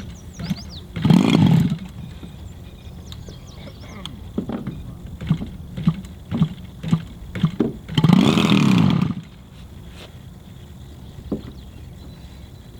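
Large gas engine on an RC model airplane firing and catching briefly, twice, for about a second each time before dying, with short knocks in between as it is turned over. It fires but won't keep running, which the owner takes for a fuel problem.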